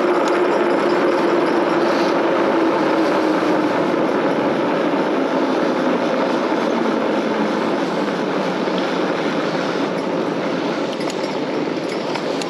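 Steady rush of wind and road noise from riding an electric bike, with a faint tone sliding down in pitch over the first few seconds.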